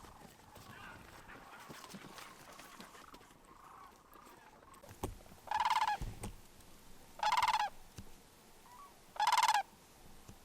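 Sandhill crane calls: faint rolling calls from distant birds at first, then three loud, evenly spaced calls about two seconds apart in the second half.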